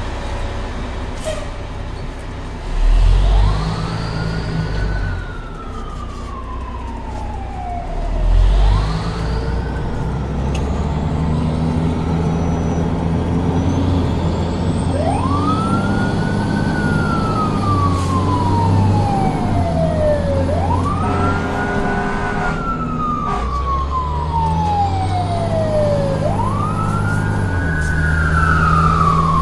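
Fire truck siren winding up quickly and falling away slowly, five times over, above a steady low drone. Two loud low thumps come about three and eight seconds in.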